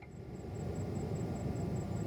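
Steady low rumble of a distant jet airliner, heard in the open air. It swells up over the first half second, then holds steady.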